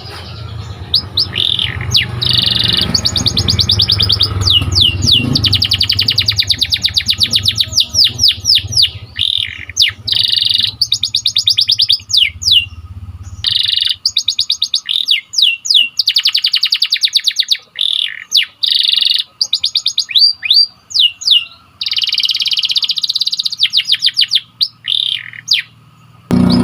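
Domestic canary singing: long rolling trills of rapid, evenly repeated notes, broken up by single quick sweeping chirps and short pauses.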